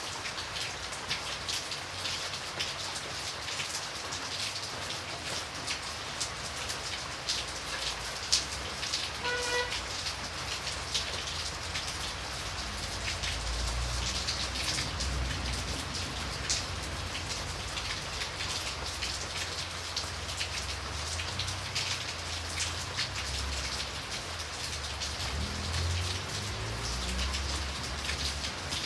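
Steady rain, with many separate drops ticking against a window pane. A low rumble runs underneath from about halfway through.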